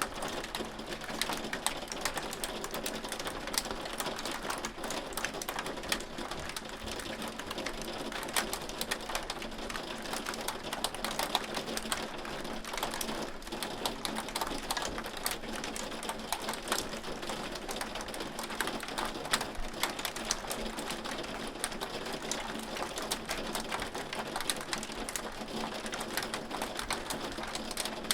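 Hail falling, the stones striking a hard surface in a dense, irregular patter of sharp ticks over a steady hiss.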